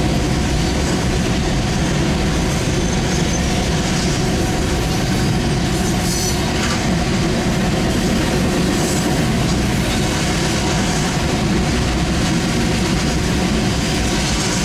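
Freight train of open hopper cars rolling past: a steady rumble of steel wheels on the rails, with faint steady tones above it.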